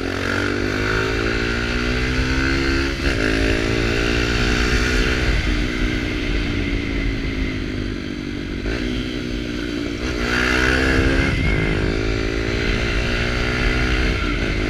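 Small Kawasaki Ninja sport bike with an aftermarket sport exhaust accelerating. Its engine note rises and then drops back several times as it shifts up through the gears, with a low rumble underneath.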